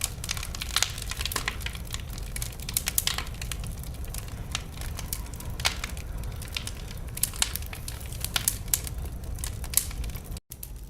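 Wood fire crackling in a fireplace: irregular sharp pops and snaps over a low, steady rumble of burning. The sound cuts out for an instant near the end, and the crackles are fainter after it.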